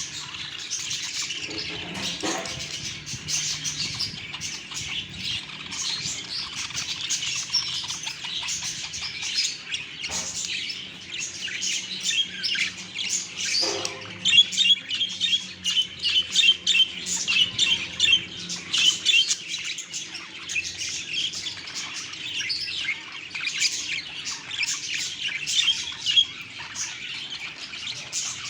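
Pet budgies chirping and chattering continuously, with a brighter run of rapid warbling notes from about halfway through.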